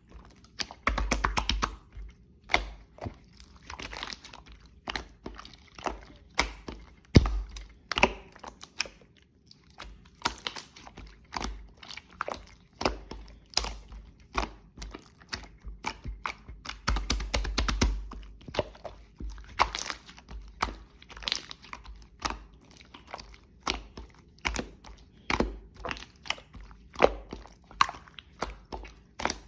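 Irregular run of clicks, taps and crunchy knocks, with a few heavier thuds near the start, about seven seconds in, and around seventeen seconds.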